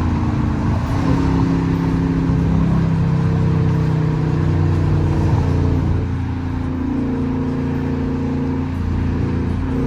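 Straight-piped, catless Dodge Charger R/T V8 exhaust running steadily at cruise, its drone shifting in pitch a few times as the revs change.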